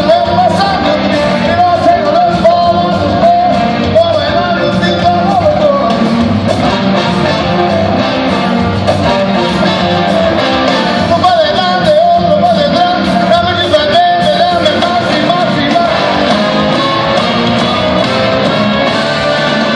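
A rock band playing live, guitars and drums under a lead melody that bends and wavers in pitch.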